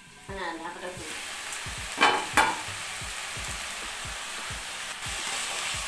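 Malabar spinach and dried shrimp sizzling steadily in a wok, with two sharp clanks about two seconds in.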